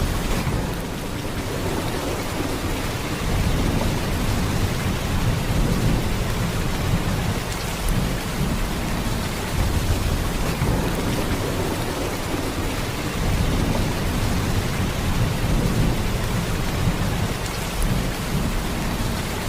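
Heavy rain pouring steadily, a dense, even hiss with a deep low rumble beneath it that swells and eases gently.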